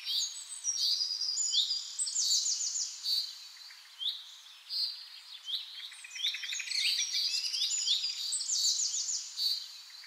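Birdsong: several birds chirping and trilling in quick, high-pitched phrases, many of them short notes sweeping downward.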